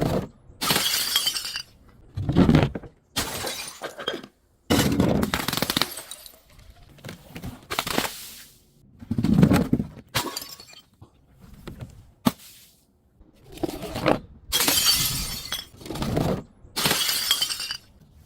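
Glass bottles breaking and being crushed: a series of crunching, shattering breaks, about a dozen in all, coming every second or two.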